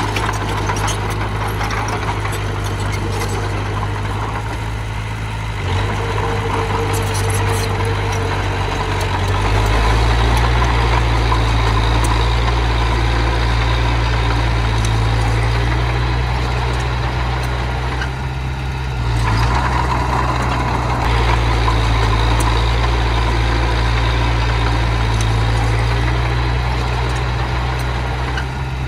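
Heavy-machinery diesel engine running steadily. It grows louder and deeper about a third of the way through, as if taking load, and eases briefly a couple of times past the middle.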